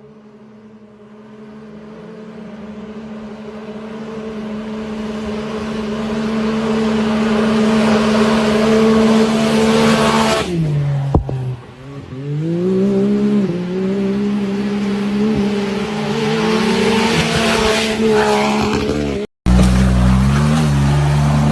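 Quad bike engine held at steady revs and growing steadily louder for about ten seconds as it draws near. The revs then drop sharply and rise and fall in several surges. The sound cuts off briefly near the end before the engine is heard again.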